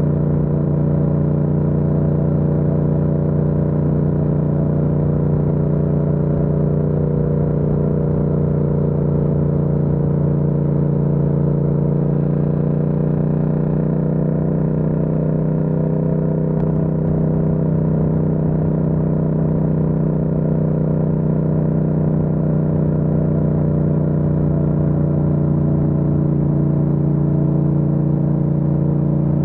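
Yamaha MT-07 motorcycle's parallel-twin engine running at a steady speed under way, its pitch holding nearly constant throughout.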